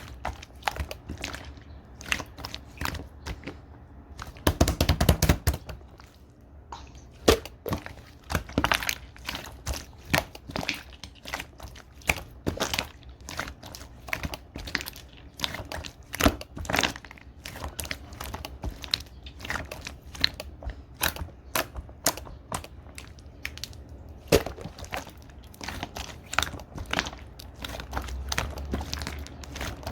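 Glitter slime being squished and pressed by hand: quick, irregular sticky clicks and pops throughout, with a louder, denser squelching stretch about five seconds in.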